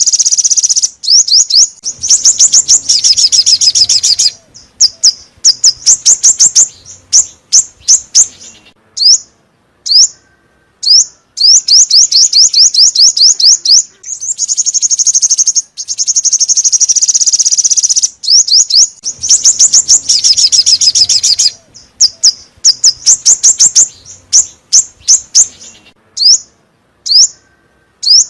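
Songbird song played as a lure recording: loud, fast trills of quickly repeated high notes alternating with single spaced notes, the same phrase sequence repeating about every ten seconds like a loop.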